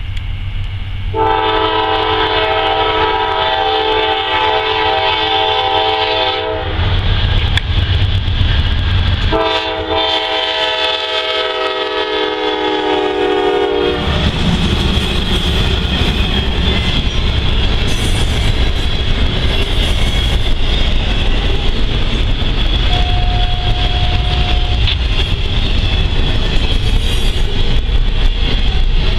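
Norfolk Southern diesel locomotive sounding its air horn in two long blasts over a low engine rumble. After that the train rolls past with steady rail noise and wheel clatter.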